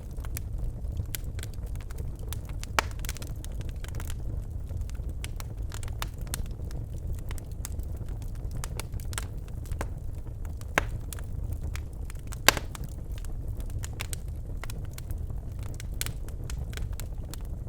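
Birch logs burning in a fireplace: a steady low rumble of flames with frequent sharp crackles and a few louder pops, the loudest about 12 seconds in.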